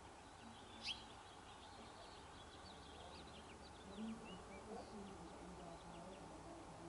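Faint bird calls: one sharp high chirp about a second in, then a run of short, quick, high falling whistles through the middle seconds.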